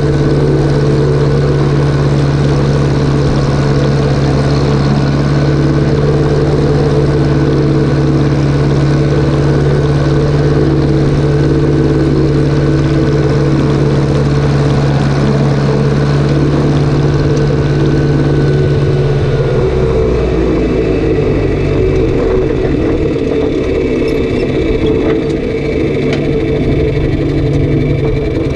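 Tractor engine running steadily with an even pitch; about two-thirds of the way through its note drops and becomes rougher.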